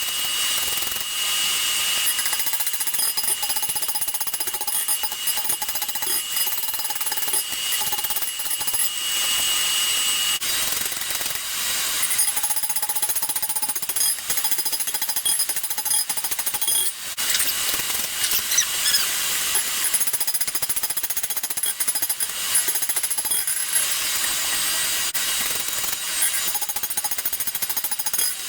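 Rapid, continuous hammering on hot steel while forging a bearded axe head.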